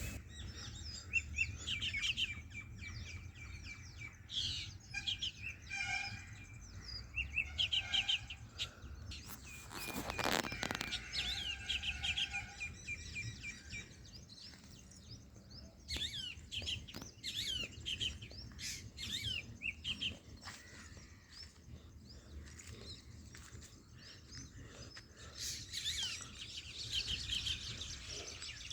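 Small birds chirping and twittering busily in short, high calls. About ten seconds in, a brief scraping noise of about a second is heard.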